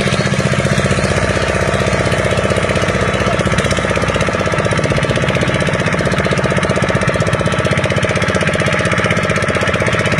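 An engine running steadily at constant speed with a fast, even beat.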